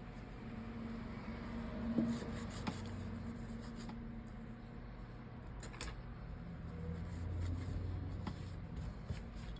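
Small repair tools scraping, rubbing and clicking lightly against a smartphone's parts during cleaning, with a few sharp clicks, over a low steady hum.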